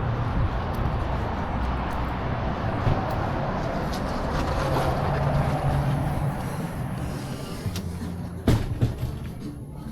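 Steady road-traffic rumble that swells about halfway through and then fades, with one sharp knock near the end.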